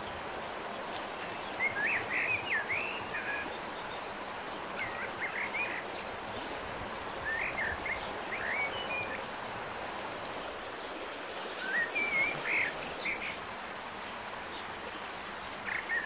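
Steady rush of river water, over which a songbird sings about five short phrases of quick rising and falling notes, a few seconds apart.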